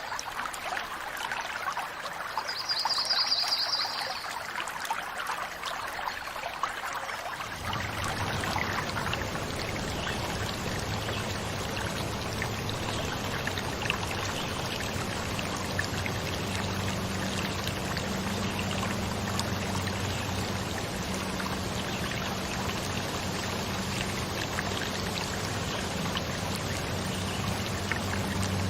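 Running water of a stream, trickling and pouring steadily. A little over seven seconds in it changes abruptly to a fuller, deeper rush, with a faint steady low hum beneath it later on.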